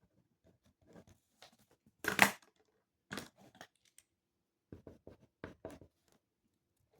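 Paper handling at a desk: short scratches and rustles, with one louder sheet rustle about two seconds in and a run of small taps and scratches near the end.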